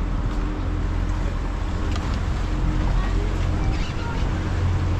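Tour boat's engine running steadily with a constant low drone, under the rush of water and wind.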